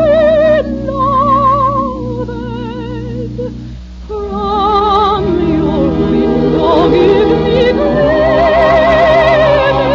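A soprano singing a slow love song in a wide, even vibrato over a studio orchestra, with a short breath-like pause about four seconds in.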